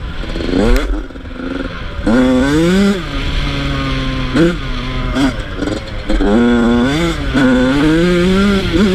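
Yamaha YZ85 two-stroke dirt bike engine revving up and dropping off over and over as the throttle is opened and closed. The pitch climbs several times, with sharp drops about a second in, about four and a half seconds in and about six seconds in.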